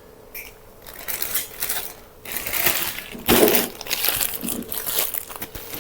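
Plastic bag rustling and crinkling in several spells as a ball of dough is put into it and wrapped.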